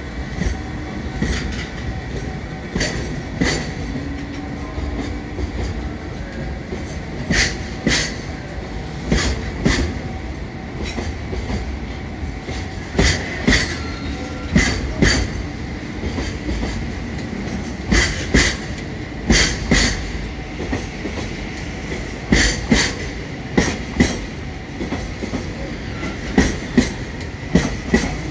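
A train running over rail joints, its wheels clicking in regular close pairs (clickety-clack) over a steady rumble, with a faint steady whine throughout.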